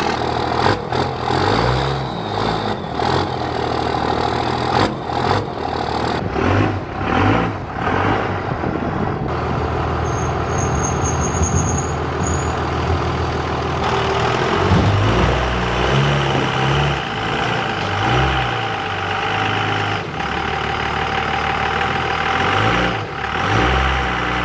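Truck engine running, its low note swelling and dropping unevenly, with scattered clicks and a high steady beep for about two seconds around the middle.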